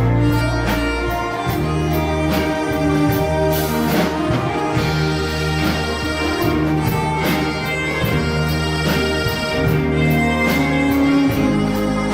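A live band playing an instrumental passage with no vocals: held bass notes that change every couple of seconds under drums with regular cymbal strokes and a sustained melody line.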